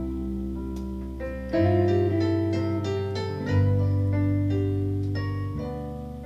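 Live band playing an instrumental passage with no vocals: chords over held bass notes that change about every two seconds.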